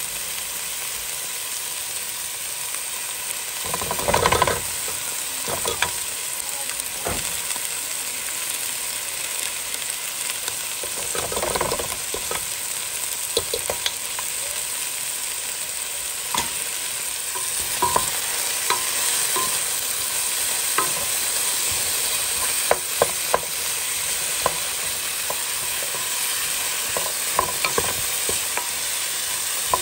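Diced chicken, zucchini and carrot sizzling in a pot with a steady hiss, stirred with a wooden spoon. Two longer scraping strokes come about four and eleven seconds in, and the spoon gives scattered clicks and knocks against the pot throughout.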